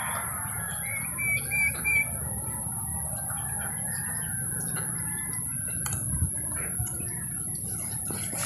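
A bird calls four short, quick notes about a second in, over a steady high-pitched whine and a low rumble, with faint scattered chirps and clicks later on.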